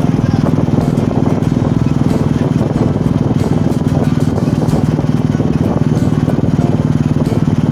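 Motorcycle engine running steadily at cruising speed while riding, an even pulsing drone with no change in pitch.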